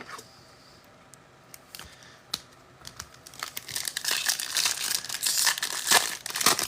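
Trading card pack wrapper crinkling and tearing as it is opened. There are a few light clicks at first, then a dense run of crackling from about three seconds in.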